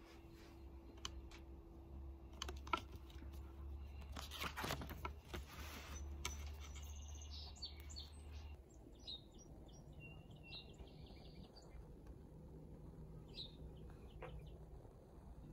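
Small birds chirping and singing, faint and intermittent. A few sharp clicks come about one to three seconds in, and a short rustle follows a couple of seconds later.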